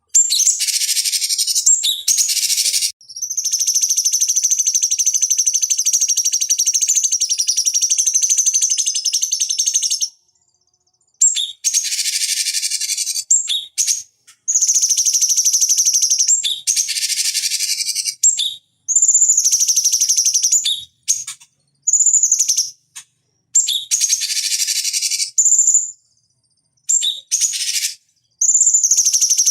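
Cucak cungkok singing: high-pitched, rapid chattering song phrases. After a short opening burst, one long phrase runs for about seven seconds, followed by a string of shorter bursts broken by brief silent gaps.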